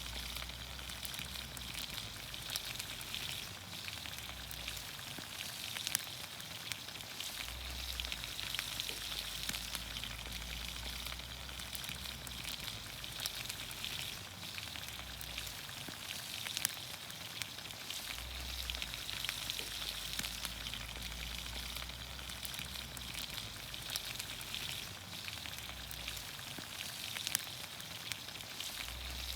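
Green beans, onions, carrots and potatoes cooking in olive oil over a campfire: a steady sizzle with scattered sharp pops.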